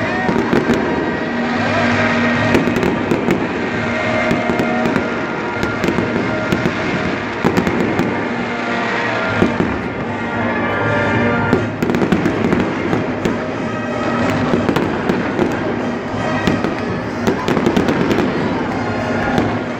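Fireworks display: shells bursting and crackling in quick, unbroken succession, with music playing along.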